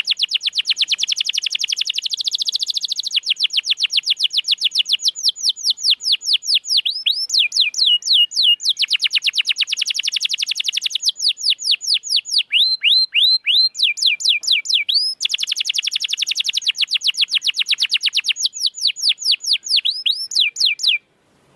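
Domestic canary singing a long, loud song of rapid rolling trills, switching between fast repeated notes and slower phrases of whistled notes that sweep downward. The song cuts off suddenly near the end.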